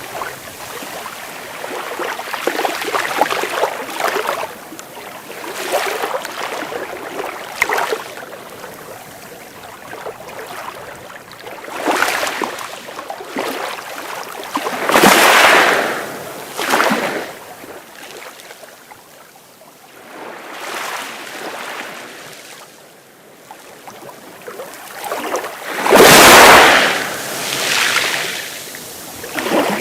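Sea waves breaking and washing in, as rising and falling surges of surf hiss. The loudest breaks come about halfway through and again near the end.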